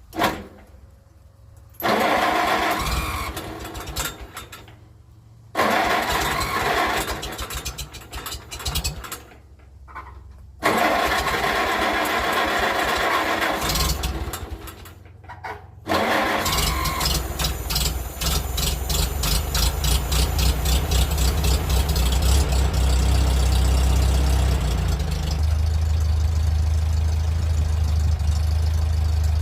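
1947 Farmall A's four-cylinder engine being cranked over in several tries after sitting for months, catching about sixteen seconds in, then running unevenly at first and settling into a steady idle.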